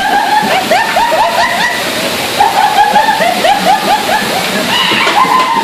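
Self-serve car wash pressure wand spraying soapy water, a steady hiss and splatter. Over it comes a run of short, high, rising squeaky tones, several a second.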